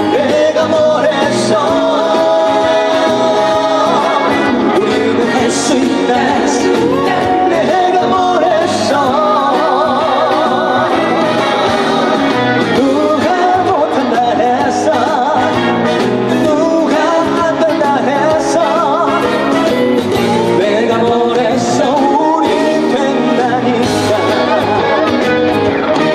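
Live trot song: a male singer singing over a loud band backing track.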